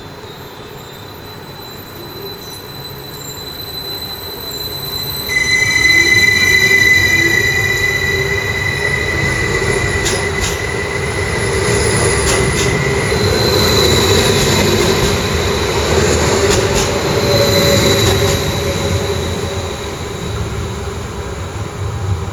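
A train running through a station, its rumble building before a high, steady wheel squeal sets in about five seconds in and lasts several seconds. Sharp clicks of wheels over rail joints or points come later.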